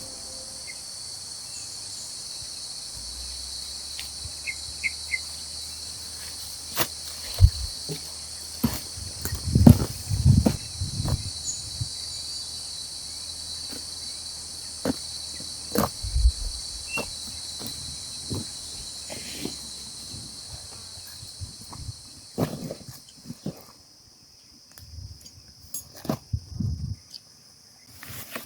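Steady high-pitched chorus of insects, with scattered thumps and knocks throughout. The chorus drops away about three-quarters of the way through, leaving only the knocks.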